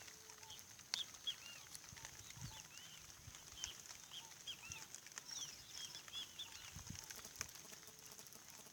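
Small birds chirping, many short rising-and-falling calls scattered throughout, over a steady high-pitched insect drone.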